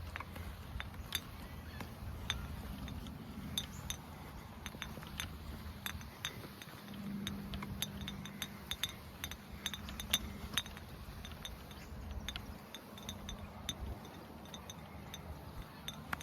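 Golf clubs clinking against each other in a golf bag: many light, irregular metallic clinks.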